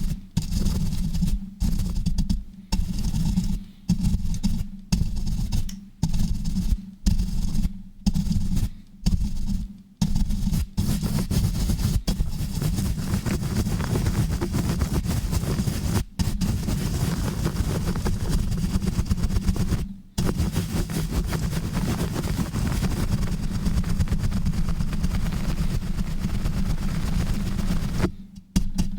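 Rough, fast rubbing and scratching right on a microphone. For about the first ten seconds it comes in rhythmic pumping strokes, roughly one a second with brief gaps. It then turns into a dense, unbroken run of rapid scrubbing with a heavy low rumble, which stops just before the end.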